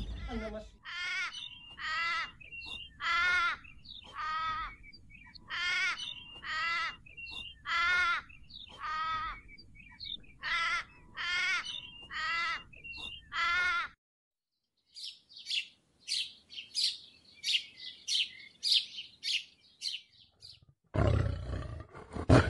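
Young chicks peeping loudly, a steady run of drawn-out, slightly falling peeps about once a second. After a brief pause come quicker, higher, short chirps, and near the end a lion's roar begins.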